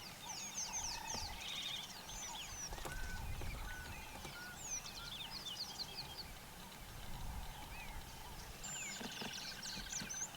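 Mixed birds calling: many rapid chirps, trills and short whistles overlapping throughout, over a low rumble.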